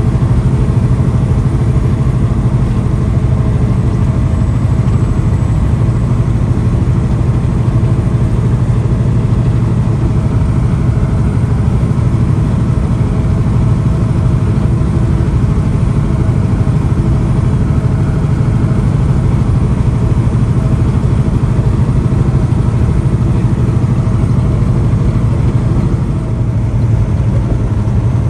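Semi truck's diesel engine running with a steady low drone that holds unchanged throughout.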